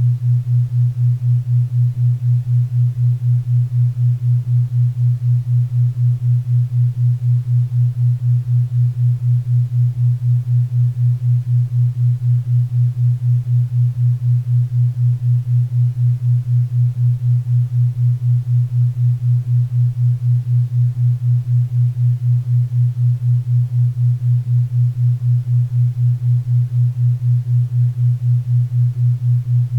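Theta-wave tone: a single low hum pulsing evenly at about four beats a second, over a faint bed of pink and brown noise.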